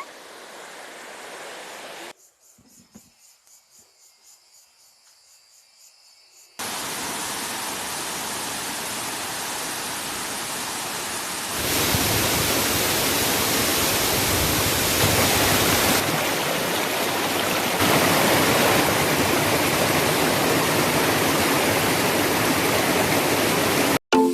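Waterfall crashing, a steady, even rush of falling water. It starts suddenly about a quarter of the way in after a quieter stretch, grows louder near the middle, and cuts off abruptly just before the end.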